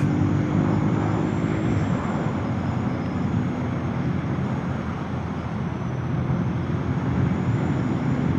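Motorcycle engine running at a steady road speed under wind and road noise. A steady engine hum is clear for about the first two seconds, then gives way to a rougher, even rumble.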